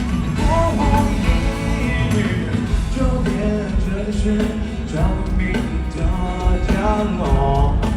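Live band playing a pop-rock song with a strong low end and a sung melody over it.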